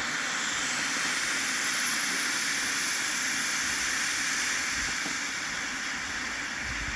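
A 500-gram fountain firework burning, spraying sparks with a steady, even hiss.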